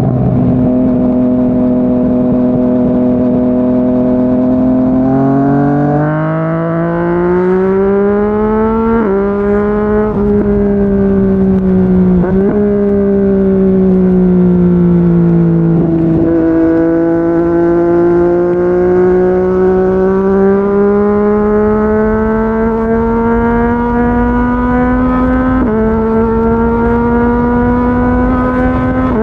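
Yamaha MT-09's inline three-cylinder engine through a Yoshimura R55 slip-on exhaust, heard from the rider's seat at expressway speed. It holds steady, then pulls up through the revs with quick dips at gear changes around 9 and 12 seconds in, eases off for a few seconds, and builds slowly again, with wind rushing underneath.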